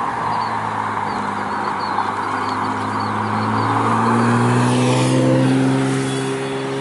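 A car engine running at low revs, its pitch and level rising a little about halfway through, then holding steady.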